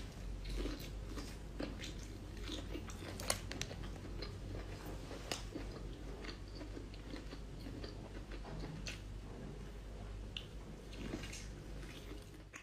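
Close-up mouth sounds of a person biting and chewing lobster meat: soft wet chewing with many small clicks scattered throughout.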